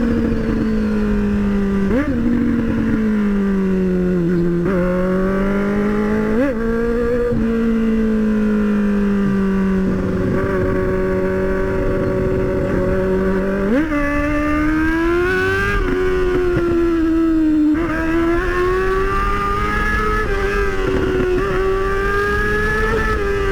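Motorcycle engine under way, its pitch sinking and rising with the throttle. There are short sharp blips about 2 and 6 seconds in, and a jump to a higher, rising note about 14 seconds in.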